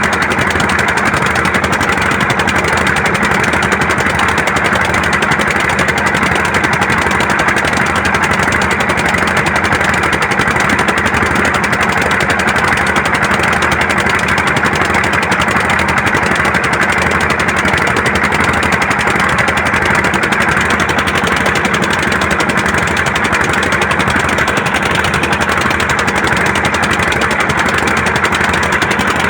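Diesel engine running steadily at idle, an even, unchanging drone.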